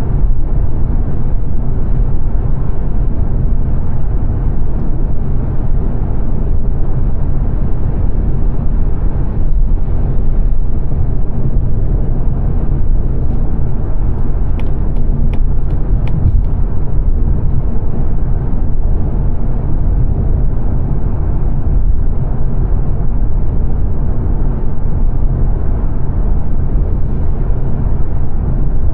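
Steady low rumble of road, tyre and engine noise inside the cabin of a 2022 Mazda 3 saloon cruising at dual-carriageway speed, with a short run of faint ticks about halfway through.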